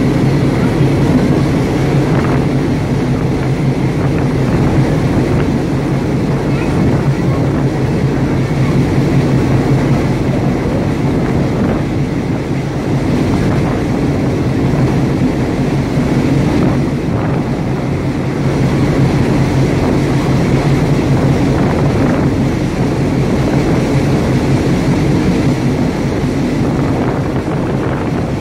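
Diesel passenger train running steadily, its engine drone and wheel noise heard through an open carriage window, with some wind on the microphone.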